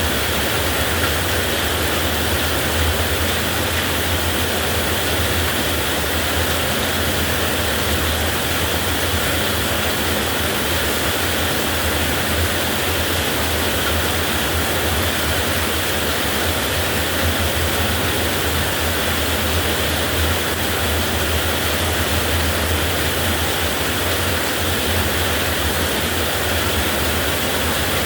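Heavy rain falling in a steady, dense hiss that holds at one level throughout, with no thunderclaps.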